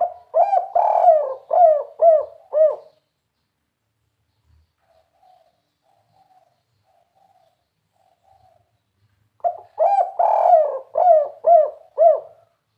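Spotted dove (tekukur) singing its 'kuk 3' song. It gives two phrases of about six quick, hollow coos each, the first at the start and the second about three seconds before the end. Faint, softer cooing comes in between.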